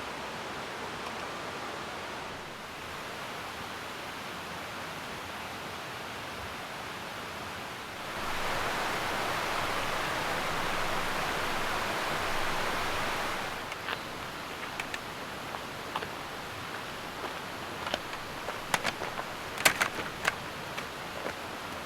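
Steady rushing noise that swells louder for about five seconds in the middle, then a run of scattered sharp clicks and snaps.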